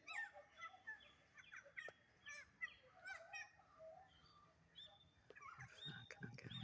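Several birds calling in rainforest: many short whistled notes, most sliding downward, overlapping one another. A few soft low thumps near the end.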